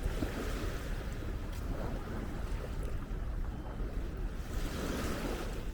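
Wind buffeting the microphone: a steady low rumble under a noisy outdoor wash, with a faint high chirp about three seconds in.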